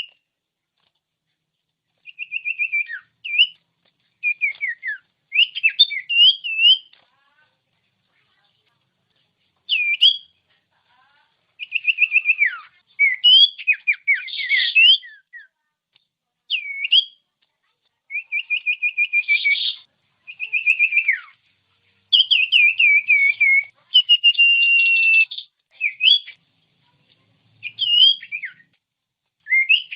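Common iora (sirtu, or cipoh) singing: short whistled phrases that rise and fall, mixed with quick runs of repeated notes, coming one after another with brief pauses between them.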